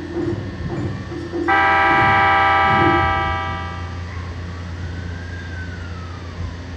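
209 series electric train's horn sounding one long blast of about two and a half seconds as the train departs. After it, a faint whine rises and then falls in pitch.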